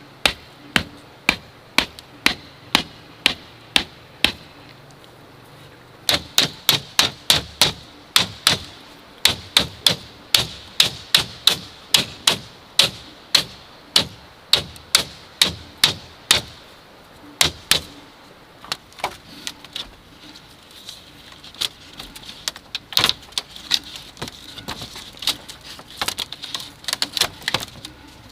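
Repeated sharp blows of a hand tool on bamboo. They come about two a second at first, then in a faster run. A little past halfway they turn into lighter, irregular quick taps, with one louder blow among them.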